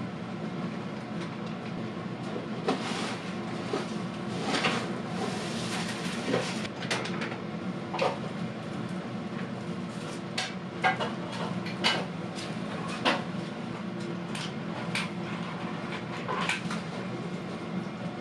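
Scattered light knocks and clicks over a steady low hum.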